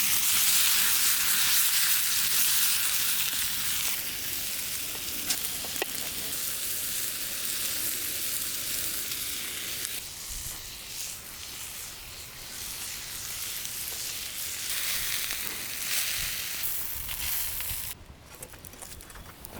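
Food sizzling as it fries in a pan over a campfire, loudest in the first few seconds, then dropping away sharply near the end.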